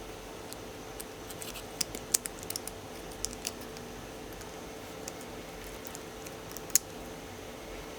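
Light irregular clicks and taps of Penn Senator reel parts being handled and fitted together during reassembly, bunched in the first few seconds with one sharper click near the end, over a steady faint hum.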